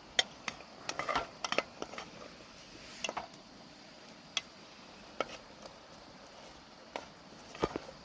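Scattered clinks and knocks of a utensil against a cooking pot, several in quick succession in the first two seconds and again near the end, as ingredients go into the soup.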